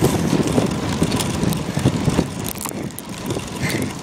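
Wind buffeting a camera taped to a moving bicycle, with rattling and clicking from the bike as it rolls along the road.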